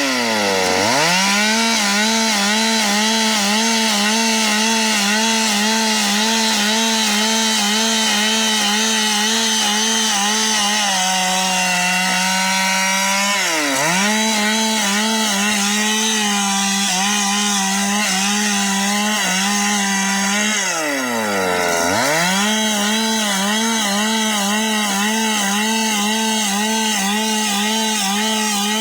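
Stihl MS 382 single-cylinder two-stroke chainsaw running at full throttle while cutting through wood, its engine note wavering under the load. Three times the revs fall away and pick up again: right at the start, about halfway through and about three quarters through.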